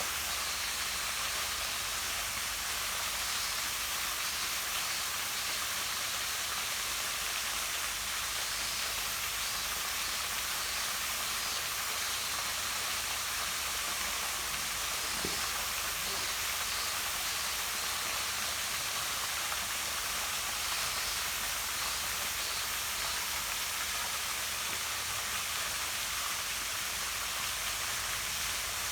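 Small waterfall spilling down a rock face into a pond: a steady, even rush of falling and splashing water.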